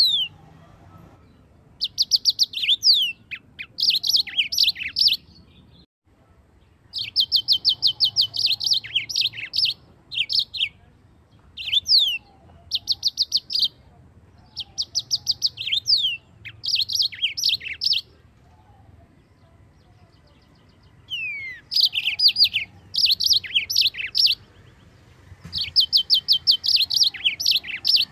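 Yellow-fronted canary (Mozambique canary) singing: repeated phrases of fast, high trills mixed with quick downward-sliding whistles, broken by short pauses of one to three seconds.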